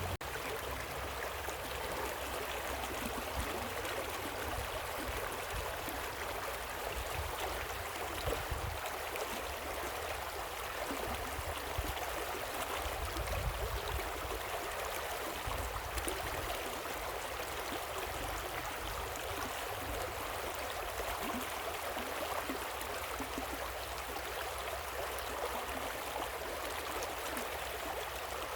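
Water of a small waterfall and stream rushing and splashing in a steady, even hiss, with an uneven low rumble underneath.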